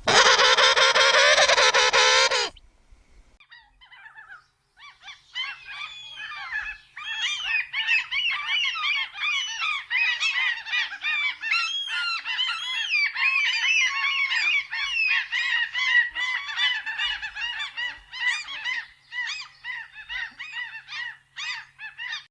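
One loud, drawn-out call of about two seconds, then after a short pause a dense chorus of many birds calling over one another, many short rising and falling calls packed together.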